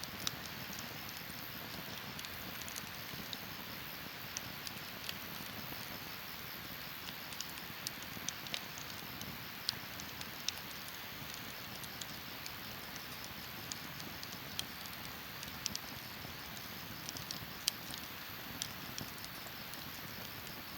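Wood campfire crackling: a steady hiss with sharp, irregular pops and snaps, a few of them louder.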